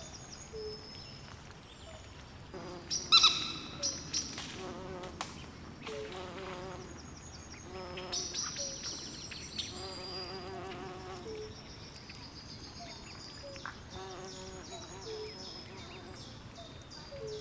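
Night swamp chorus: frogs calling in short pulsed trills and insects chirping in quick high notes over a faint steady hiss. One louder call stands out about three seconds in.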